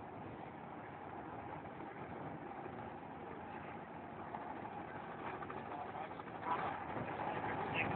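Steady drone of distant motorboat engines from a spectator fleet on the harbour, heard through a mobile phone's microphone.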